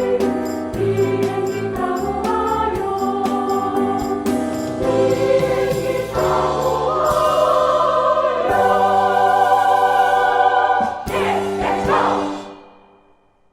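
Women's choir singing the final phrases of a song with instrumental accompaniment and a steady beat, ending on a long held chord with an accented final hit about eleven seconds in, then dying away to silence near the end.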